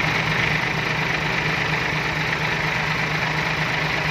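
Large diesel engine idling steadily, with an even low hum and no change in speed.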